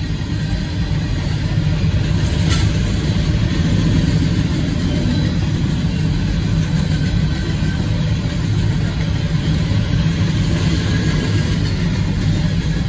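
Freight train of covered hopper grain cars rolling steadily past a grade crossing, a continuous low rumble heard from inside a stopped car. A single brief click comes about two and a half seconds in.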